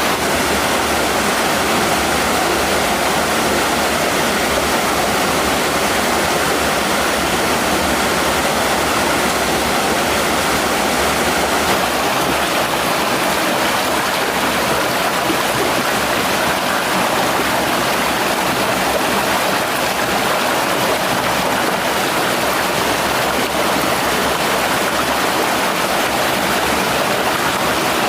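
Mountain stream rushing, a loud, steady wash of flowing water.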